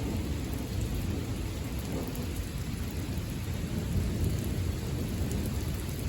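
Steady rain with a continuous low rumble of rolling thunder from a severe thunderstorm.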